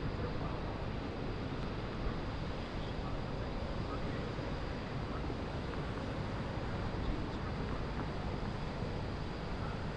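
Steady city ambience heard from high above a river: a broad, even rumble of distant traffic and boats, with wind on the microphone.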